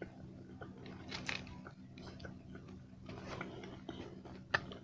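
Close-up chewing and soft crunching of a crispy dark-chocolate orange stick made with corn flakes, a few faint crunches spread through the chewing. A sharper click comes near the end.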